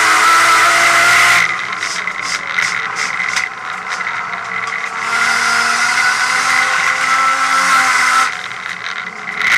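Nissan R32 Skyline race car's engine heard from inside the cabin, running at high revs, then lifting off with a run of short crackles. It pulls hard again for a few seconds before lifting off once more near the end.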